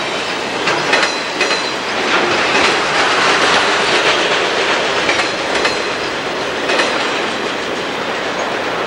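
Freight train cars rolling past at close range, their wheels clicking rhythmically over the rail joints under a steady rumble of rolling noise.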